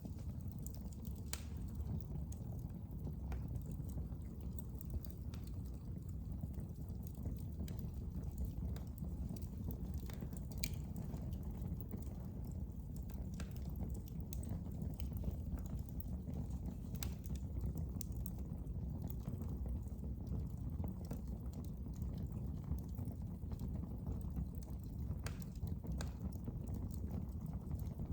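Fire in a fireplace crackling: a steady low rumble of flames with frequent small, sharp pops and snaps at irregular intervals.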